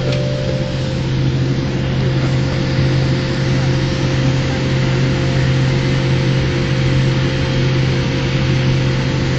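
Steady cabin drone inside a Boeing 787 Dreamliner before departure. A strong low hum runs under a constant rushing noise, with a fainter steady higher tone.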